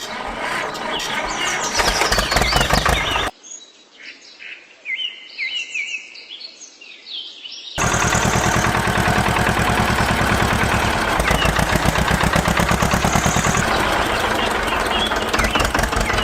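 An engine running with a rapid, even beat. About three seconds in, it gives way to roughly four seconds of birds chirping, then the engine comes back loud and steady.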